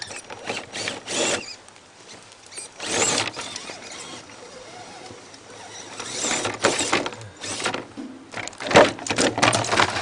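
Radio-controlled 1/10-scale 4x4 truck driving in short irregular bursts, its electric motor and gears whirring and its tires scraping over dirt and rock, busiest near the end.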